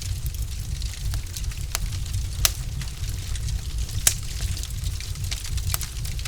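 Log fire crackling: frequent small snaps and ticks over a low steady rumble, with two louder pops about a second and a half apart in the middle.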